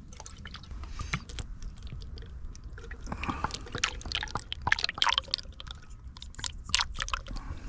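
50-50 premixed coolant being poured from its container into a car's cooling system, in irregular glugs and splashes mixed with short clicks.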